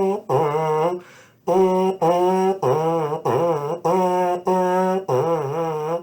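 Trombone/baritone mouthpiece buzzed on its own, playing a simple tune: a phrase of about eight separate tongued notes on a few low pitches, with a short break about a second in.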